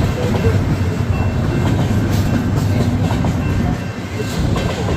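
Union Pacific intermodal freight train rolling past: a steady rumble of wheels on rail, with light clicking of wheels over the rail joints.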